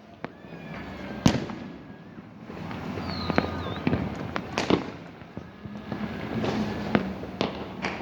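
Fireworks going off: irregular sharp bangs of bursting shells and firecrackers over continuous crackling, the loudest bang about a second in.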